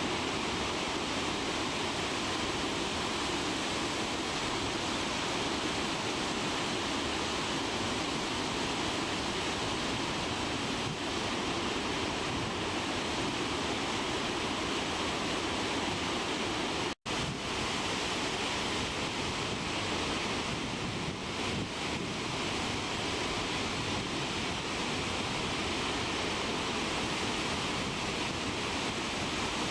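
Steady, unbroken roar of a large waterfall's falling water. The sound cuts out for an instant about seventeen seconds in.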